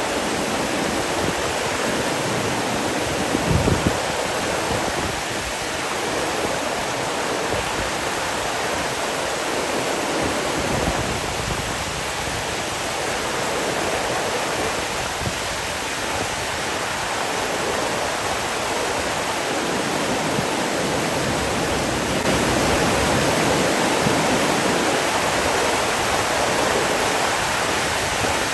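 Steady rush of flowing water, even and continuous, with a brief low rumble about three and a half seconds in.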